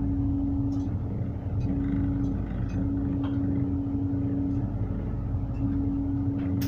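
Tugboat diesel engine running steadily under manoeuvring, with a single humming tone that cuts in and out several times over it.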